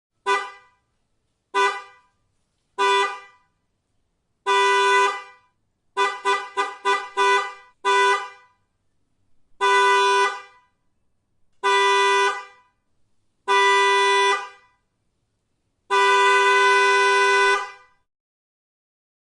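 Car horn honking in a pattern: three short toots, a longer honk, a quick string of about six short toots, then three honks of about a second each and a final held honk of about two seconds.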